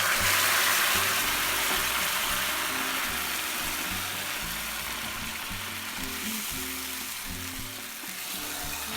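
Hot oil of fried garlic and coriander sizzling loudly as it meets the molokhia. The hiss breaks out suddenly and slowly dies down.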